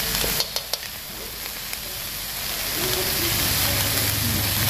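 Chicken feet, lemongrass and chili sizzling in hot butter and oil in an aluminium wok, with a few sharp metal clicks of the utensils against the pan in the first second.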